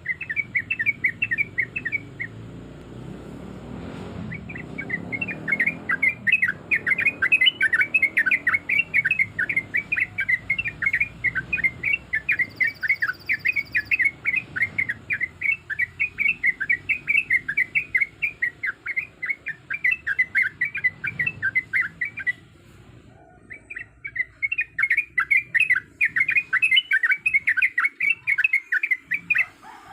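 Yellow-vented bulbul singing a long, rapid run of chattering notes, several a second, that breaks off twice briefly: once a couple of seconds in and once about three-quarters of the way through.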